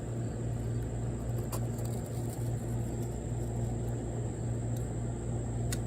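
Steady low background hum, with two faint clicks from a carving knife cutting into wood up to a stop cut, about a second and a half in and near the end.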